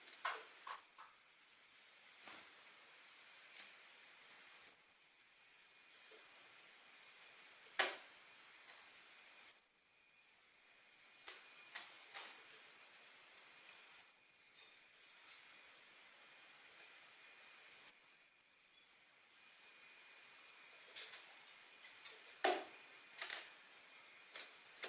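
Orange-headed thrush (anis merah) giving its thin, high 'ngecis' call: a short whistle falling in pitch, repeated five times about every four to five seconds. A faint steady high tone and a few soft ticks run underneath.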